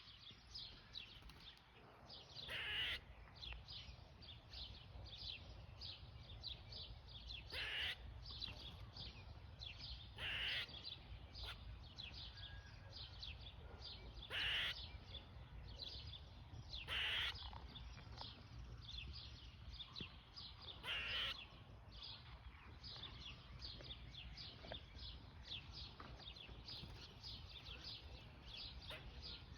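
A squirrel's alarm calls: a steady run of short, high chips about two a second, broken every few seconds by a louder, longer call, six times in all.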